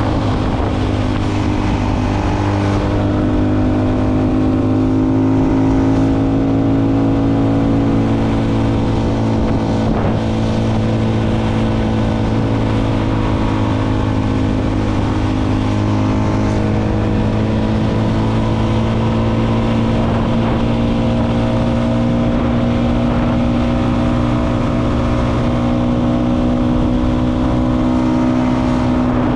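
Motorcycle engine running at a steady cruising pace, recorded on the moving bike, with wind and road noise. The engine note drifts slowly up and down without any sharp revving.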